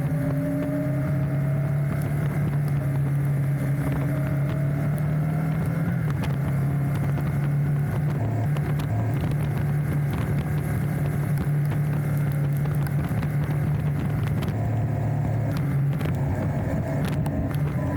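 Enduro motorcycle engine running at a fairly steady cruising speed along a gravel road, its pitch shifting slightly now and then. Scattered sharp ticks come over it throughout.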